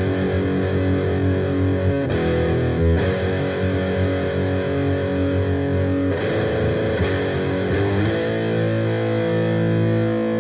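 Distorted electric guitar playing heavy metal chords, changing chord every second or few, then holding one long chord from about eight seconds in.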